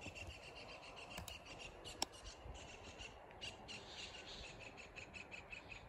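Faint birds calling, a scattered series of short chirps, with a single sharp click about two seconds in.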